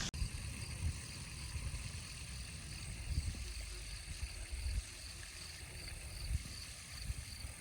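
Outdoor ambience: uneven low rumbles and bumps, with a faint high chirp repeating evenly a little under twice a second and a thin steady high tone.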